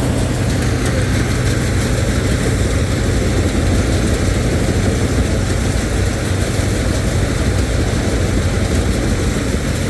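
Combine harvester running: a loud, steady engine drone with a constant low hum, even throughout.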